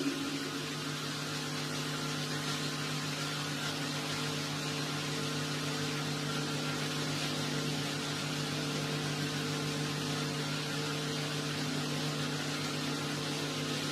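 Steady low hum with an even hiss, with no speech or music; the echo of the chanted word dies away at the very start.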